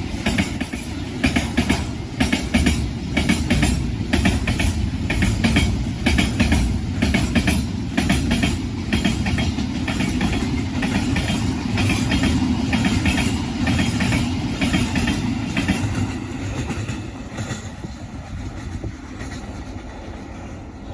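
A train passing close by, its wheels clicking rapidly over the rail joints above a steady low rumble; the sound fades away near the end.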